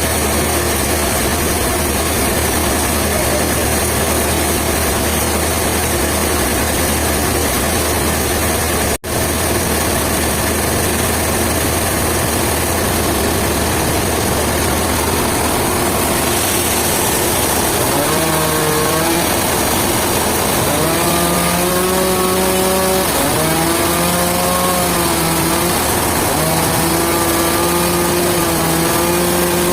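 An engine running steadily under loud mechanical noise, with a brief break about nine seconds in. From a little past halfway its pitch rises and falls again and again as it is revved or loaded.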